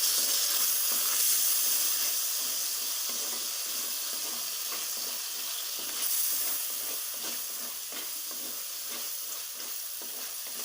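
Tomato and spice-powder masala frying in hot oil in a kadai, sizzling steadily, with a spoon stirring it against the pan.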